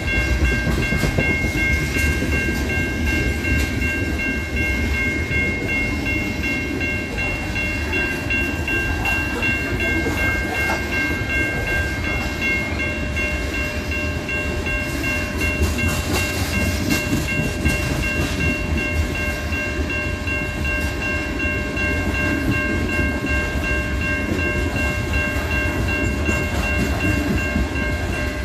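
Freight train of open-top hopper cars rolling steadily past: a continuous low rumble with rattling and clacking from the wheels and cars. Over it, the level crossing's warning bell rings without a break.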